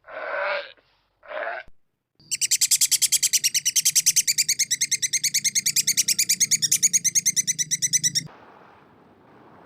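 Two short rasping animal calls, then a bird trilling: a fast, even run of high chirps, about ten a second, for some six seconds. The trill stops abruptly and a soft rushing noise follows.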